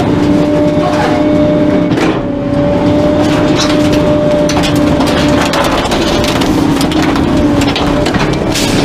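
Garbage truck running with a steady hydraulic whine at one pitch, mixed with irregular cracking and snapping as the compactor crushes bulky items.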